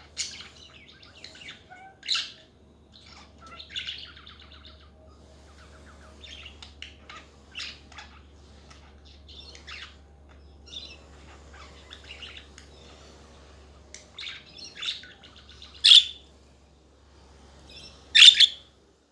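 Pet budgerigars chattering: a run of short warbled chirps and twitters, with a few louder sharp calls at about 2 seconds, near 16 seconds and near 18 seconds.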